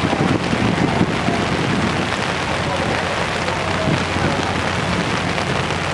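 Steady rushing wind noise on the microphone, with faint voices of a harbourside crowd underneath.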